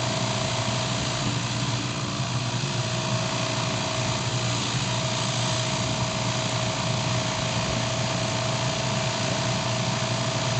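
Hotsy-type hot water pressure washer running steadily while its diesel-fired burner heats the water: a steady low hum with a constant higher tone over an even hiss.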